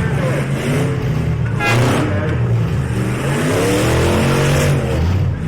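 Engines of demolition-derby trucks revving hard, their pitch rising and falling as they accelerate and back off, with a brief sharp noise a little under two seconds in.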